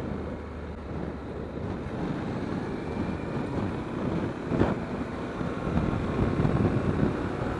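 Honda NC700X motorcycle's parallel-twin engine running at low road speed, heard from the rider's camera with wind noise on the microphone. A brief louder rush of noise comes about halfway through.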